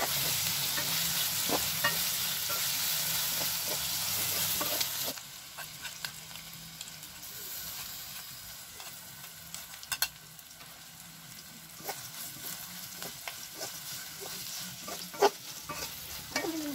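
Grasshoppers frying in a wok, sizzling, while a metal spatula scrapes and taps against the pan as they are stirred. The sizzle drops suddenly about five seconds in, leaving a quieter crackle and occasional sharp clinks of the spatula on the wok.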